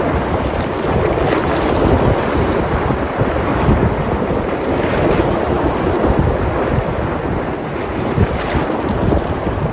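Sea surf breaking and washing steadily, with wind rumbling on the microphone.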